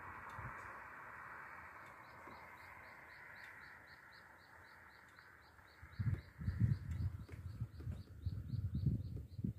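A small bird repeating a short, high, falling chirp about three times a second, starting about two seconds in and running on to near the end. A rushing noise fades away over the first few seconds, and irregular low rumbling on the microphone, the loudest sound, sets in about six seconds in.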